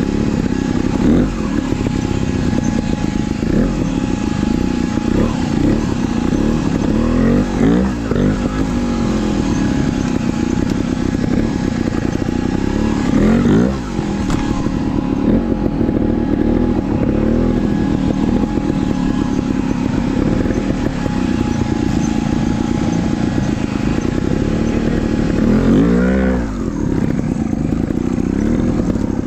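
Trials dirt bike engine running under constant throttle changes, its pitch rising and falling as the rider works the bike. There are sharp blips of revs about 8, 13 and 26 seconds in.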